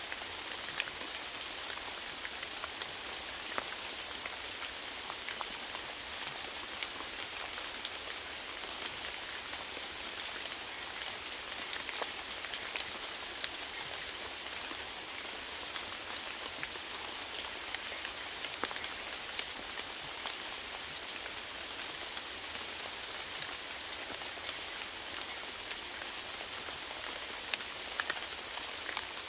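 Steady rainfall, with a constant hiss of falling rain and many separate drops ticking on a hard surface.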